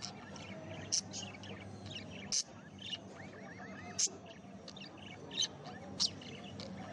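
Small pet parrots chirping: sharp high chirps about once a second with softer warbling in between, over a steady low hum.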